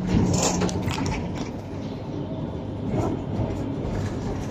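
Double-decker passenger train rolling, heard from inside the coach: a steady rumble of the carriage with scattered clicks and knocks.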